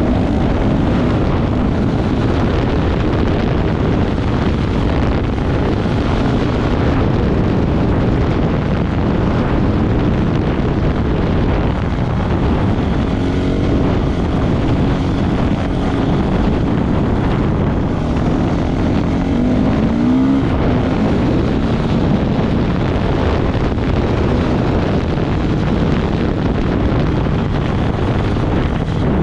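Off-road motorcycle engine running hard at speed with wind noise on the microphone. The engine pitch rises and falls with the throttle a couple of times.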